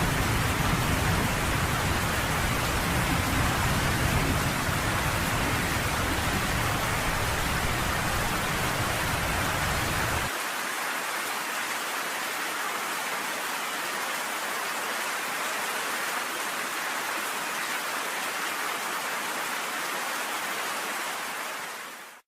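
Steady rain falling, with a deep low rumble underneath that cuts off abruptly about halfway through. The rain then carries on alone and fades out at the very end.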